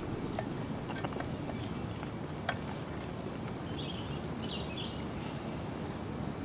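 Wood fire crackling with scattered sharp pops over a steady low rumble, and a short bird call about four seconds in.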